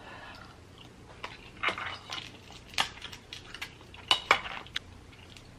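Snow crab legs being broken open and eaten: sharp cracks and clicks of shell snapping, with a few short rustles in between.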